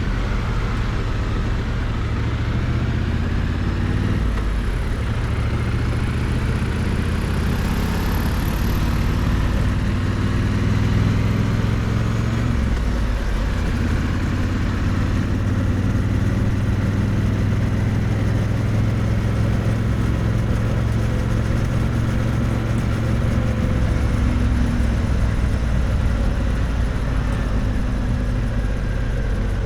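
Triumph Bonneville T100 parallel-twin engine and exhaust running steadily under way, its note rising and falling gently with the throttle, picked up close to the exhaust.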